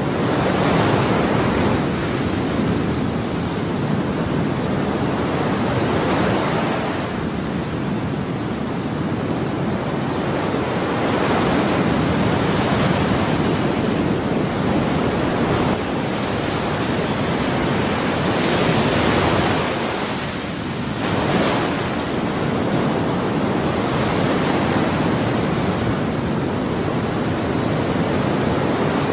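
Ocean waves washing onto a shore, a continuous rush of surf that swells every few seconds as each wave breaks.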